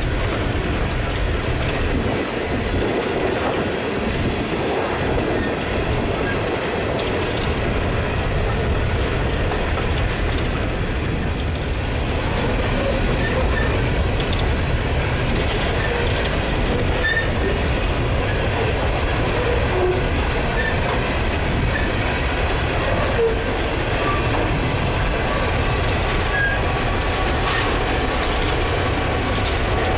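Freight train cars rolling past on steel wheels, clicking over the rail joints, with occasional brief faint wheel squeals.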